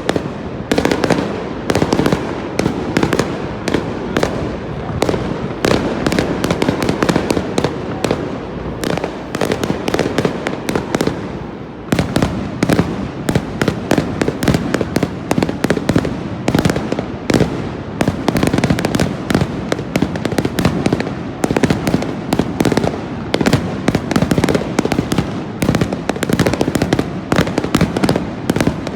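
Aerial fireworks bursting overhead in rapid, nearly continuous succession: many sharp bangs a second over a dense rumble of booms, easing briefly about twelve seconds in before picking up again.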